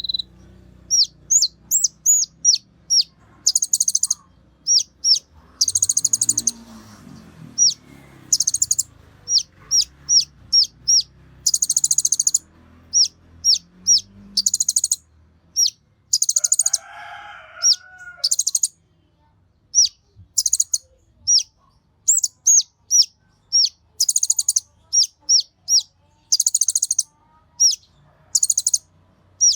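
Kolibri ninja (konin) sunbird singing vigorously: rapid series of short, high, downward-sliding notes alternating with fast rattling trills about a second long. A brief lower call from another bird sounds once near the middle.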